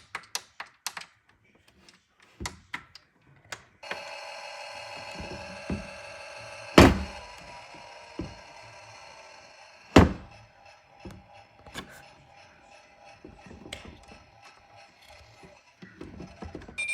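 Washing machine being worked: a quick run of clicks, then a steady electronic hum from about four seconds in, with two loud thuds a few seconds apart.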